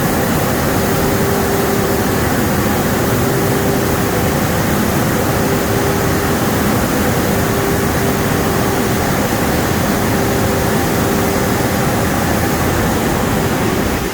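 Automatic tunnel car wash equipment running: a loud, steady rushing noise of water spray and blowers, with a steady hum over it.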